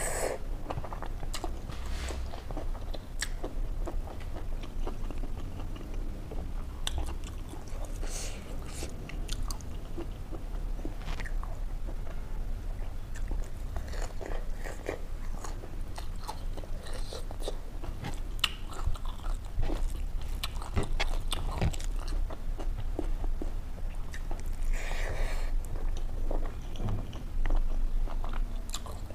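Close-miked chewing and crunching of mouthfuls of rice, smoked pork curry and fresh green sprouts eaten by hand, with many short wet clicks and crackles.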